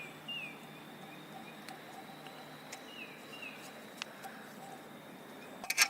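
Faint bird chirps, short falling notes in two little groups, about half a second in and again about three seconds in, over quiet background noise with a few light clicks.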